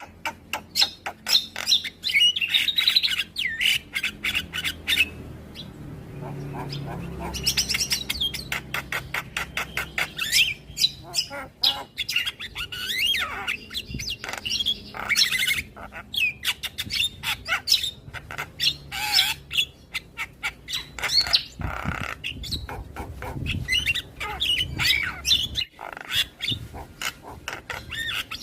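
Javan myna song: fast runs of harsh clicks, chatter and squawks mixed with whistled notes that glide up and down, in bursts with short pauses.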